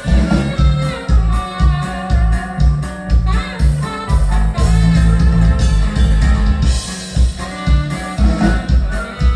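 Norteño band music: a bouncing bass-and-drum beat about twice a second under a sustained melody line.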